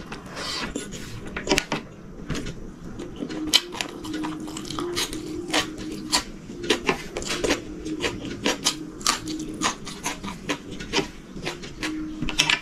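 Close-miked eating sounds of a person chewing a mouthful of rice and chicken curry eaten by hand: many irregular wet smacks and clicks, with a faint steady hum underneath.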